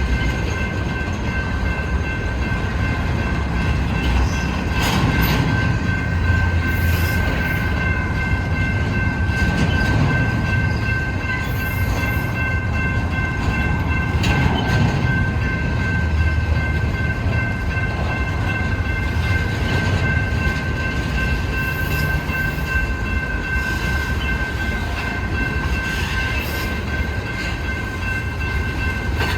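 Union Pacific manifest freight train rolling past with a steady low rumble of wheels on rail. Over it sits a continuous high-pitched squeal of several steady tones, typical of wheels squealing as the cars move through.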